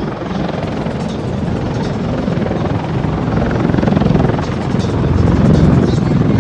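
CH-53E Super Stallion heavy-lift helicopter flying past with a steady rotor beat and engine noise, growing louder in the second half.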